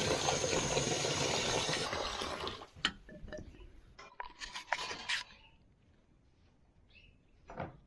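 Water running in to fill the sheep's water, stopping about two and a half seconds in, followed by a few light clinks and knocks.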